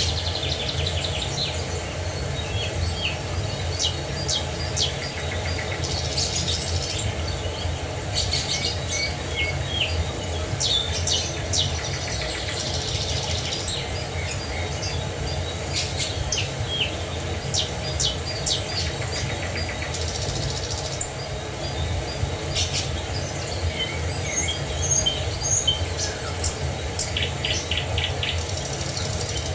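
Several birds chirping and singing in short, repeated calls over the steady low rush of a waterfall.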